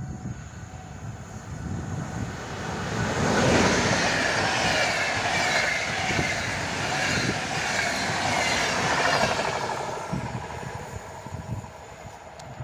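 A passenger train hauled by an EU44 (Siemens Taurus) electric locomotive passing by. It swells to a loud rushing rumble of wheels on rail within a few seconds, holds for about six seconds, then fades away.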